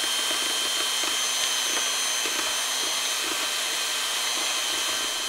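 Electric mixer running steadily at medium-high speed with a high whine, beating egg whites into meringue as sugar is added, with faint irregular knocks of the beaters against the bowl.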